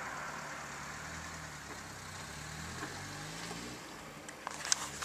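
A vehicle engine idling with a steady low hum that begins abruptly, with a few clicks near the end.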